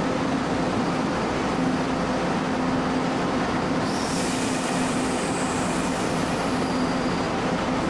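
Taiwan Railway DRC1000-series diesel multiple unit running steadily with its diesel engines humming as it pulls out of the station. About four seconds in, a high thin whine with a hiss joins the steady noise.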